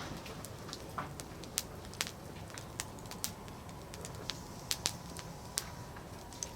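Firewood burning in a campfire, crackling with irregular sharp pops over a low, steady rushing of flame.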